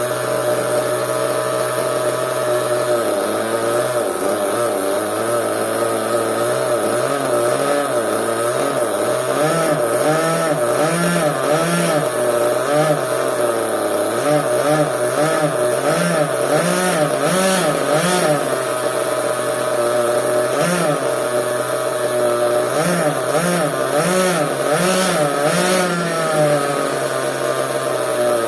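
Two-stroke nitro glow engine of a CEN RC monster truck running, steady for the first few seconds, then revved in short throttle blips, its pitch rising and falling over and over.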